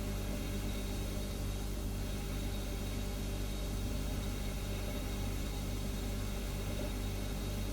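Refrigerator humming steadily: an even, low-pitched hum with a faint hiss above it, unchanging throughout.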